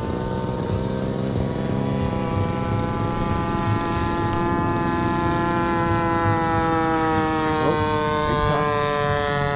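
Radio-controlled model airplane engine and propeller running steadily, its pitch sliding slowly down as the plane comes in to land. Onlookers have heard this engine hiccuping and take it to be misfiring.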